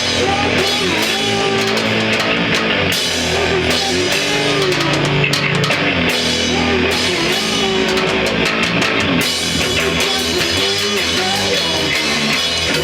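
Rock band playing loudly: guitar and drum kit.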